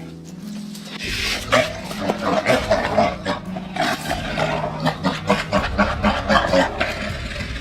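Animals fighting, with rough, irregular animal vocal sounds in dense bursts that begin about a second in.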